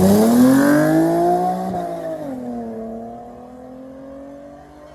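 Racing car accelerating hard away down the strip, its engine note climbing steeply, dropping with a gear change about two seconds in, then climbing again as it fades into the distance.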